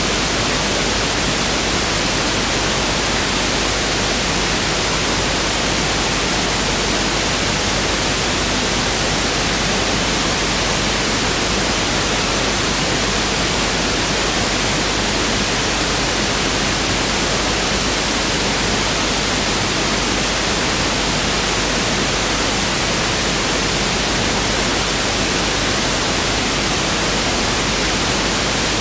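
Pink noise (1/f) test signal: a steady, even hiss spread across the whole frequency range, unchanging throughout.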